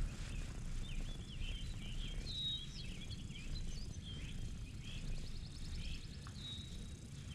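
A songbird singing a run of short warbled and chirped phrases, with a fast trill a little after five seconds in, over a steady low outdoor rumble.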